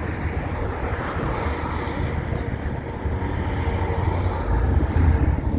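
Low, steady engine rumble of a car running, growing a little louder near the end.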